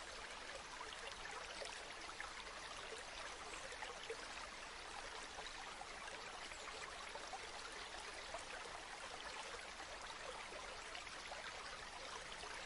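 River water flowing steadily over stones, a faint, even rush with a fine babbling texture.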